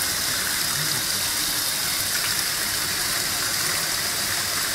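Noble Boss washing machine filling: water gushes steadily through the inlet into the drum.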